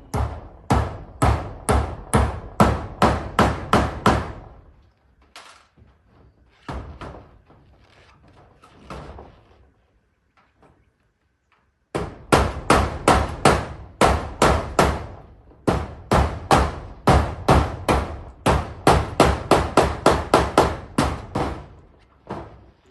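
Hammer driving nails in rapid, steady blows, about two to three a second. It comes in two long runs with a pause of several seconds between them, typical of nailing down corrugated zinc roofing sheets.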